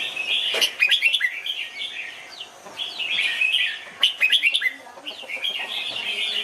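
Red-whiskered bulbul singing: several bursts of quick, sharp whistled notes with fast downward sweeps, recurring every second or so.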